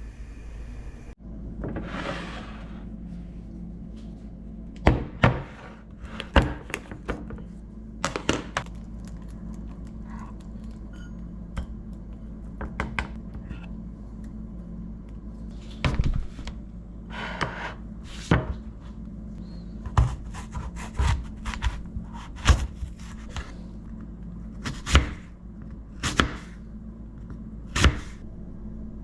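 Irregular knocks and clunks of kitchen work, with things such as containers, dishes and utensils being set down and handled, over a steady low hum.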